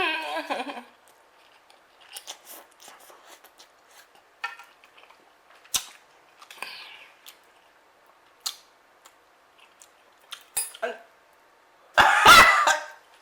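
Close-miked eating sounds: soft chewing and mouth noises with scattered clicks of cutlery against a plate. About twelve seconds in comes one loud, short cough-like burst from the eater.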